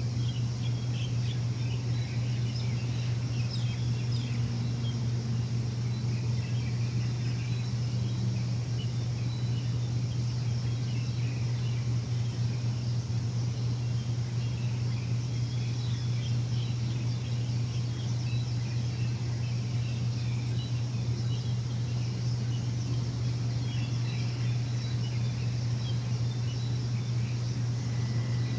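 Steady low machine hum throughout, with small birds chirping over it.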